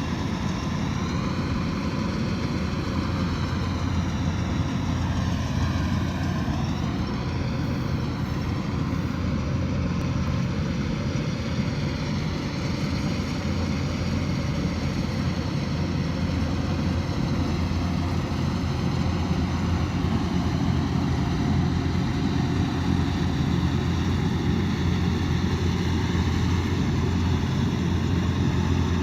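Kubota DC108X combine harvester running steadily, its diesel engine and machinery giving a constant low drone with higher whining tones that waver briefly about seven seconds in.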